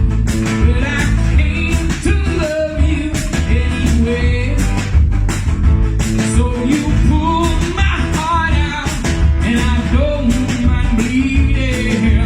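A band playing a rock-blues number: electric guitar and a melodic lead line over a steady drum beat.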